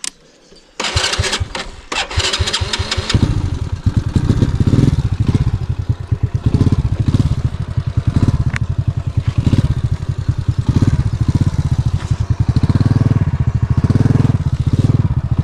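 Small motorbike engine being started: the starter cranks in quick strokes for about two seconds, then the engine catches about three seconds in and keeps running with a fast, pulsing beat.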